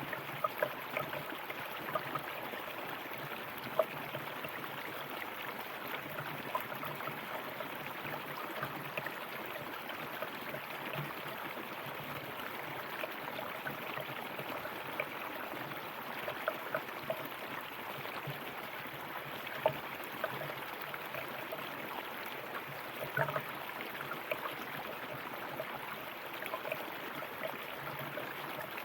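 River water running steadily over stones, with frequent small splashes and gurgles.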